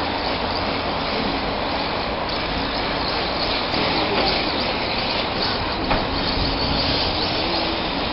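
Battery-powered RC drift cars running: a steady noise of small electric motors and tyres sliding, with a faint whine that wavers up and down in pitch.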